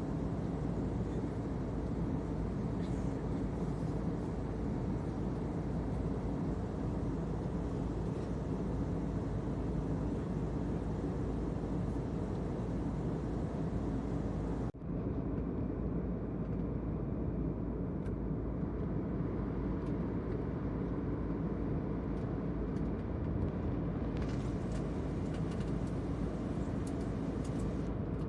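Steady cabin noise of an airliner in flight, the engines and rushing air heard from a passenger seat as an even low rumble. About halfway through it breaks off for a moment and resumes slightly duller.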